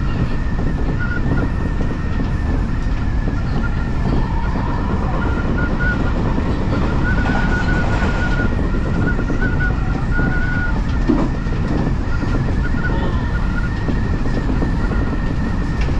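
Odakyu Line electric commuter train running on the rails, heard from on board: a steady low rumble with a thin high whine that comes and goes through the middle.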